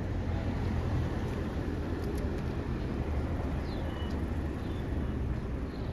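Steady low rumble of vehicles and street traffic.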